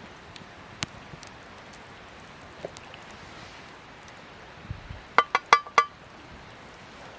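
Campfire crackling with a few scattered pops, then about five quick ringing metallic clinks a little after five seconds in, a metal utensil knocked against camp cookware.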